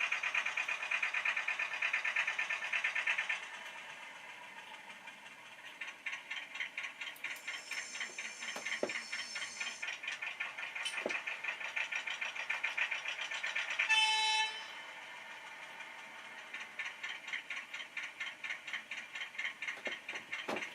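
Model train running on the track with a fast, even clicking rattle of its wheels, louder for the first few seconds. About fourteen seconds in, the locomotive's horn gives one short blast.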